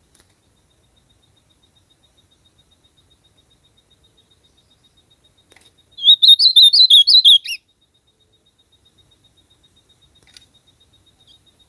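Azulão (ultramarine grosbeak) singing one short phrase of quick, warbling whistled notes, about a second and a half long, near the middle.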